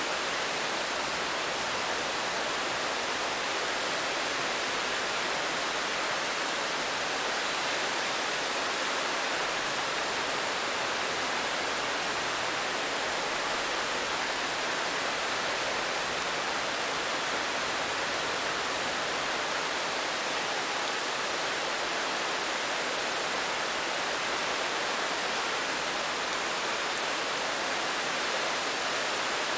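Steady, continuous rain: an even hiss without distinct drops or pauses.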